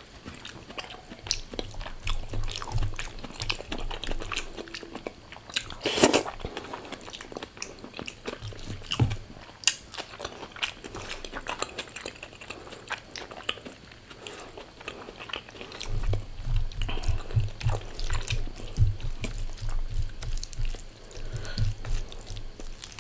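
A person eating close to the microphone: chewing and crunching on food with small clicks, one loud crunch about six seconds in, and steady rhythmic chewing near the end.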